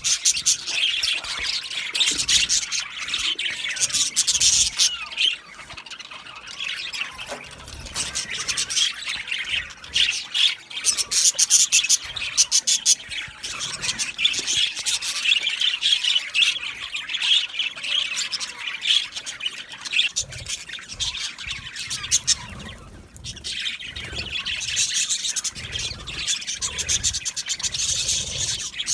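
A flock of budgerigars chattering, warbling and squawking together: a dense, continuous stream of rapid high calls, briefly thinning twice.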